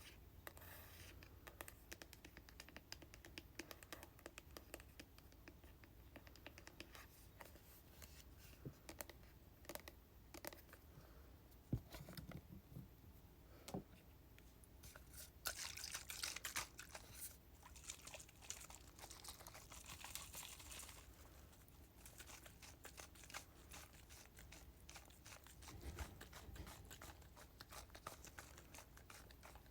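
Quiet, slow tapping on hair-product containers, heard as a series of separate small clicks. Midway there is a few seconds of rustling, scratchy handling.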